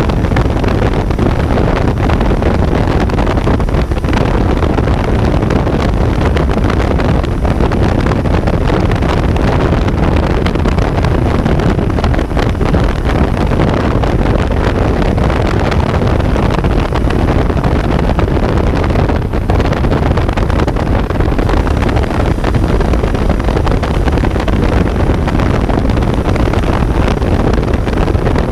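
Kawasaki Z900 inline-four engine running under way on the road, heard onboard, mixed with heavy wind rushing over the microphone.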